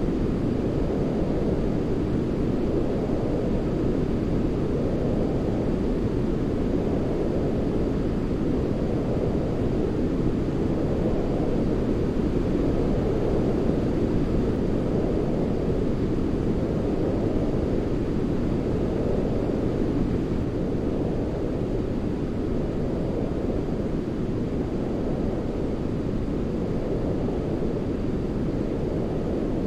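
Steady white-noise track for baby sleep: a low, deep rushing hiss weighted toward the bass, like brown noise, swelling and easing gently every couple of seconds.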